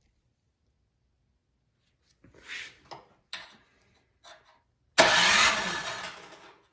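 Craftsman snowblower engine cranked over once with its spark plug out, to test for spark: a sudden loud whirr about five seconds in that dies away over a second and a half. A few faint handling clicks come before it.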